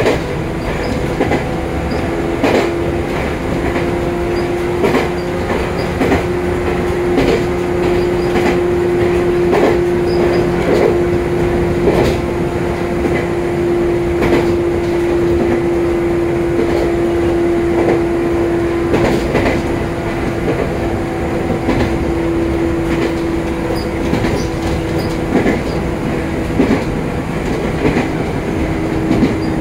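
Joshin Line electric train running at a steady speed, with a constant hum and wheels clacking over rail joints at irregular intervals.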